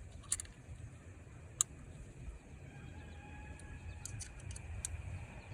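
A few sharp, light clicks and clinks, bunched near the end, over a low steady rumble.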